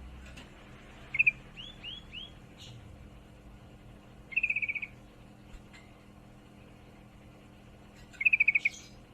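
Female yellow-vented bulbul (trucukan) giving her chattering 'ngriwik' calls of a hen in breeding condition calling for a male: a short note group about a second in, a few quick rising-and-falling notes, then two rapid bursts of fast repeated notes, one mid-way and one near the end. A faint steady low hum underneath.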